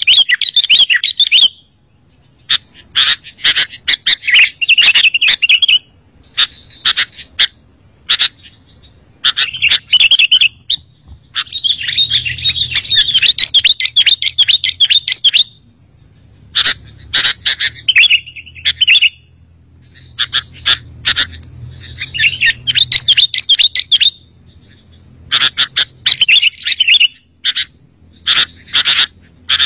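Sooty-headed bulbul (kutilang) singing loudly in repeated bursts of rapid chirps and trills, each lasting one to a few seconds with short pauses between, with sharp clicking notes mixed in.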